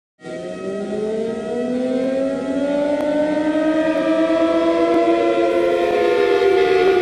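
Several outdoor warning sirens wailing at once, their pitches slowly rising and falling out of step with one another.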